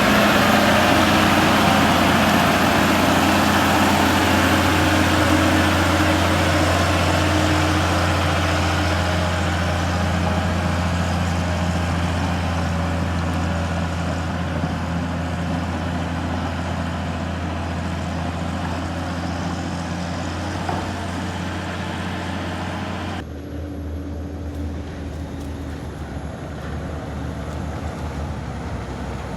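Heavy truck engine running with a steady low hum, loud at first and gradually fading. About three-quarters of the way through, the higher noise drops away abruptly and the hum continues more quietly.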